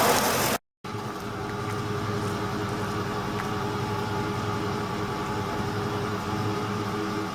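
Ford F-150's 5.4 L three-valve V8 idling steadily. Under a second in, a brief dropout cuts from a louder stretch of running to a quieter, even idle.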